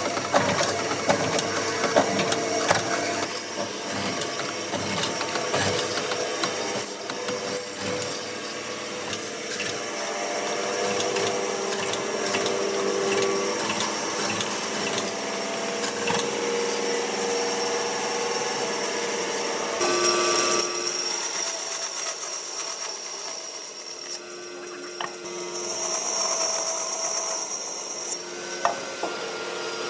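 Power tools working wood, a continuous machine noise with frequent small knocks and scrapes; the sound changes about two-thirds of the way through.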